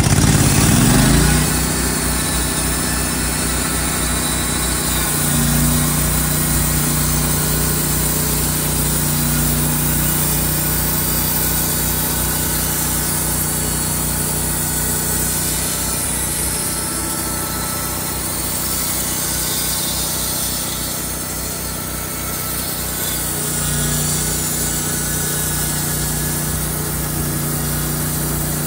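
Sawmill's engine revving up, then running steadily under load while the blade cuts through a log to saw off a 2-inch slab; the engine note shifts slightly a few times as the load on the blade changes.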